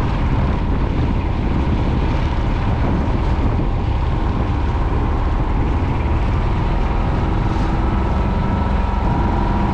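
A sailboat under way in strong wind: a steady, loud rumble of wind on the microphone and water rushing along the hull, with a faint steady hum underneath.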